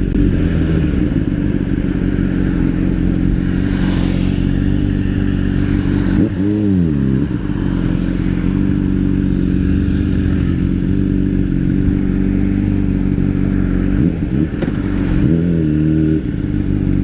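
Honda CBR600RR inline-four engine running while riding at a steady engine speed. Its pitch drops and climbs back about six and a half seconds in, and again near the end, as the revs fall and pick up.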